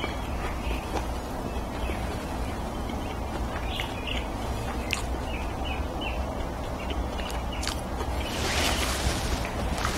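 Close-miked chewing of a mouthful of fried chicken and corn: soft, wet mouth clicks and smacks. A brief, louder hiss comes about eight and a half seconds in.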